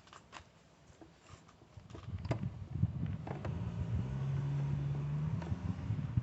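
Light clicks and knocks of a sensor wire and its connector being worked through a car's engine bay by hand, over a low rumble with a steady low hum that comes up about two seconds in.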